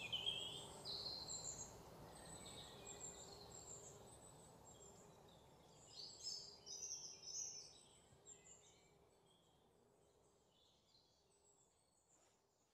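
Faint birds chirping in short high calls and gliding notes, over a low steady hum. A second cluster of calls comes about six seconds in, then it all fades away towards the end.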